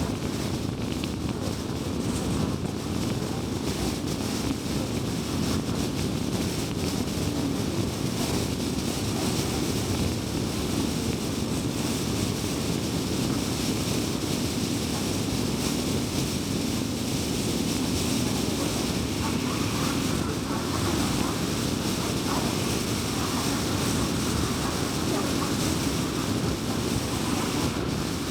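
A car driving steadily at highway speed: constant road and tyre noise with a low engine hum, unchanging throughout.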